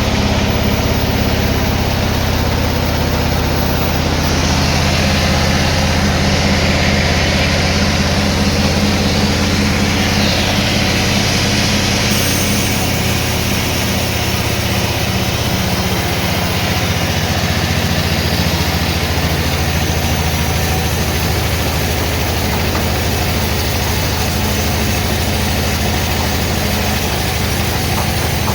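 Sawmill machinery running steadily: a low, even engine-like hum under a constant noisy hiss.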